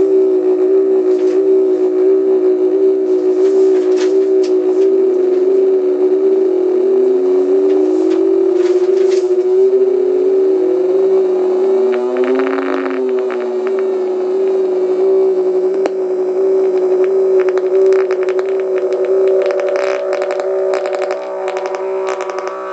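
Electronic tones from a breadboard prototype sound circuit: a steady buzzing drone with other pitches sliding slowly up, one rising and falling back down about halfway through, and scattered crackling clicks that grow thicker toward the end.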